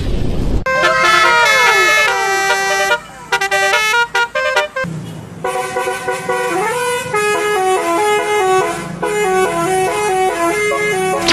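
Telolet Basuri multi-tone musical bus horn playing a tune: swooping notes in the first few seconds, then, after a short break, a quick stepped melody of short notes.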